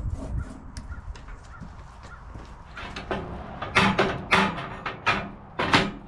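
A bird cawing harshly about five times in quick succession, starting about three seconds in, over faint knocks and clicks.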